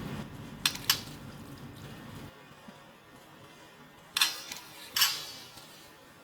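A small songbird bathing in a bath cage: short splashes of water in two pairs, the second pair with slightly longer tails.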